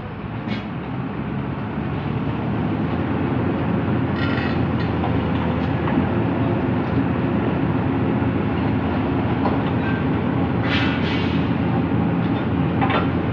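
Heavy diesel engine running under load, a deep steady rumble that builds up over the first few seconds and then holds. Two brief hisses cut through about four and eleven seconds in.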